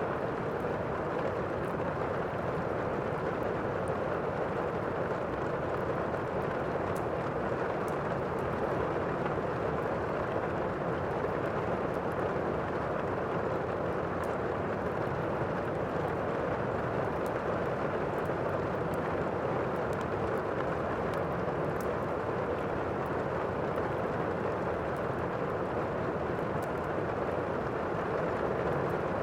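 Steady rainstorm ambience: an even, unbroken rushing of rain, with faint scattered crackles of a wood fire.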